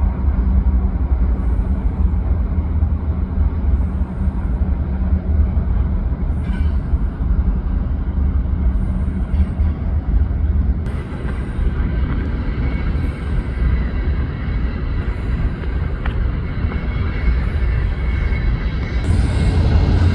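Freight train of tank cars rolling past, a steady, loud low rumble of wheels on rail that grows louder near the end.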